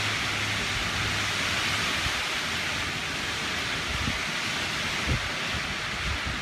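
Strong wind rushing through trees and foliage, a steady hiss, with a few low buffets of wind on the microphone.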